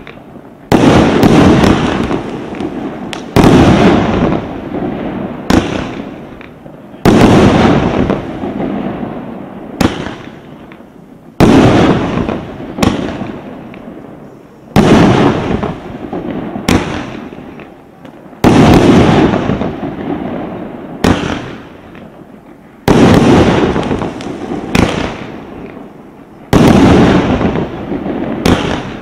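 Svea Bomb Extreme fireworks cake, 37 shots of 45 mm, firing shell after shell: a loud bang about every two seconds, each dying away over a second or so before the next.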